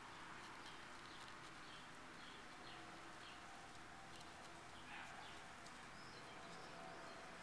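Quiet outdoor ambience: faint short bird chirps scattered over a low, steady background.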